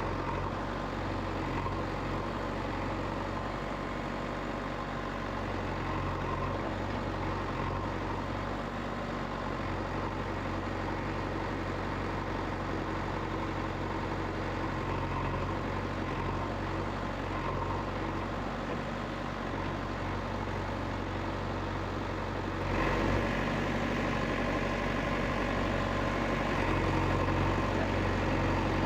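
An engine running steadily with a low, even note, growing louder and brighter about three-quarters of the way through.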